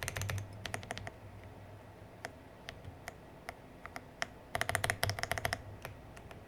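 Aula F99 Pro mechanical keyboard keys clicking as its refitted keycaps are pressed: a quick run of clicks at the start, scattered single clicks, then another fast flurry about four and a half seconds in.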